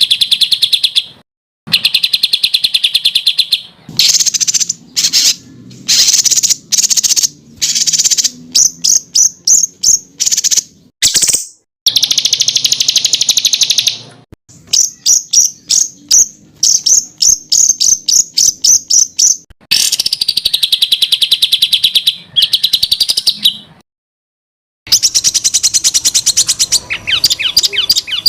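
Small songbirds singing fast, piercing trills and rapid runs of repeated high notes, the 'tembakan' phrases prized in Indonesian song-bird contests. The song comes in short spliced phrases that cut off abruptly to silence several times, as in an edited masteran training recording.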